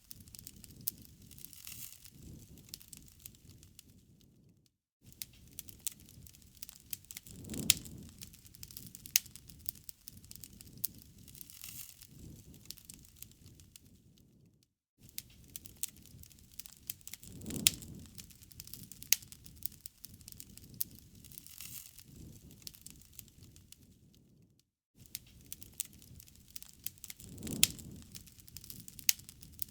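Bonfire crackling: a steady bed of small crackles with frequent sharp pops, and a low swell of burning about every ten seconds. The sound cuts out to silence for a moment about every ten seconds, the same stretch repeating.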